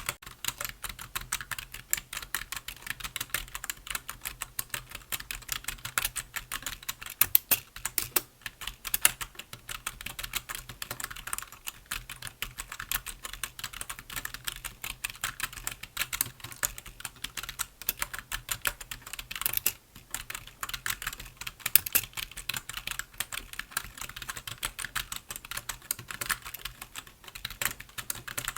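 Continuous fast typing on a computer keyboard: a dense, steady stream of key clicks with occasional louder keystrokes.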